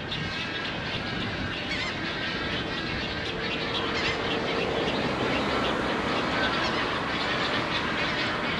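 A group of birds calling and chattering, with honking calls among the many short chirps, over a steady low rumble. A steady drone comes in about three seconds in and fades out near the five-second mark.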